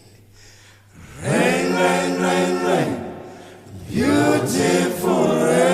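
Voices singing a cappella in a choir-like blend, two long held sung notes without clear words, each sliding down in pitch at its end.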